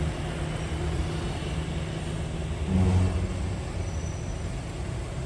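Heavy diesel truck engine running as it passes on a mountain climb: a steady low hum that swells briefly about three seconds in.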